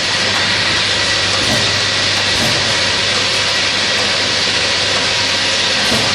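Small-bottle filling machine running: a steady hiss with faint knocks every second or two.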